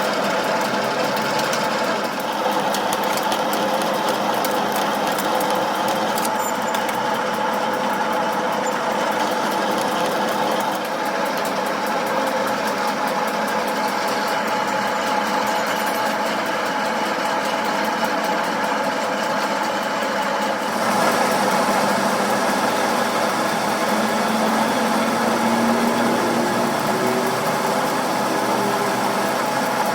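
A machine running steadily with a constant hum of several tones, its sound shifting about two-thirds of the way through.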